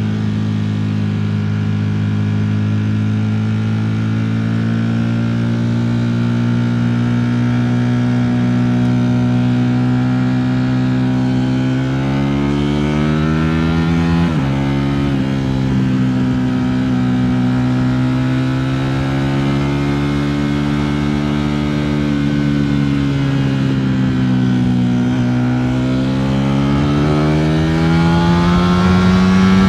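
Ducati Streetfighter V4 S's 1103 cc V4 engine under way, holding a steady note for about twelve seconds, then revving up and dropping sharply at a gear shift about fourteen seconds in. It eases off around twenty-two seconds and climbs again near the end.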